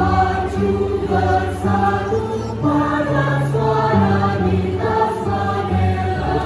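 A choir singing in several parts, with notes held and changing step by step and a strong low bass line underneath.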